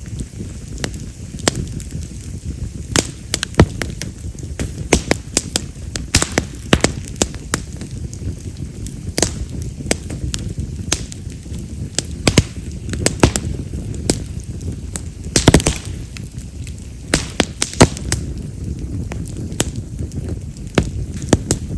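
Split wild mountain cherry (yamazakura) firewood burning in a bonfire, crackling with frequent, irregular sharp pops over the low rush of the flames. The loudest pops are firecracker-like, as this wood is known for, with a cluster of them a little past the middle.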